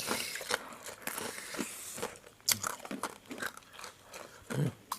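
Crunchy chewing close to the microphone: a run of irregular crackly clicks, mixed with crinkling. A short vocal sound comes near the end.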